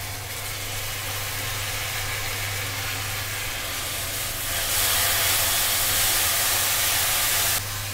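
Ground green coriander-garlic-ginger-chilli paste sizzling in hot oil in a kadhai as it is stirred in. The sizzle turns louder about halfway through and drops suddenly near the end, over a steady low hum.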